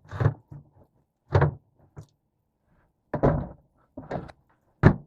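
A series of about five short thuds and knocks, a second or so apart, with the loudest near the end.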